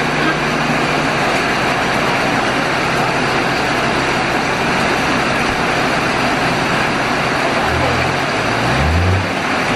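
Heavy rain falling steadily, with a four-wheel-drive vehicle's engine running underneath; the engine note rises briefly near the end.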